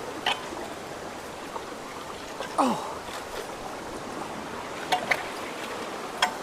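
Rain-swollen creek water rushing steadily through culverts, with a few sharp clicks and a short falling squeak about two and a half seconds in.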